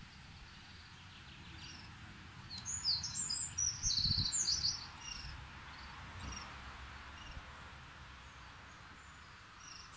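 A small bird chirps a quick run of high, twittering notes for about two seconds a few seconds in, over faint steady outdoor background noise.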